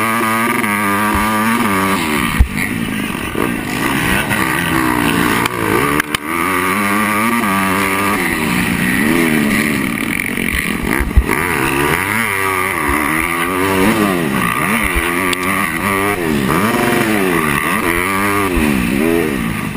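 Motocross bike engine revving up and dropping back over and over as the rider works the throttle around the track, with a few sharp knocks along the way.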